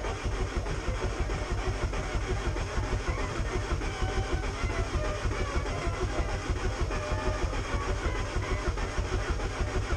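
A vehicle engine running steadily with a deep, fluttering rumble.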